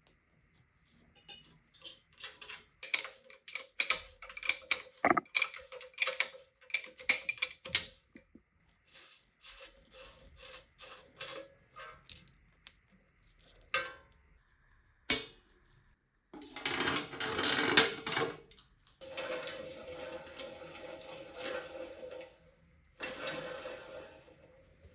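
Small metal bicycle parts clinking and tapping against each other and a hard surface in a quick run of clicks, then a few seconds of rough rubbing noise.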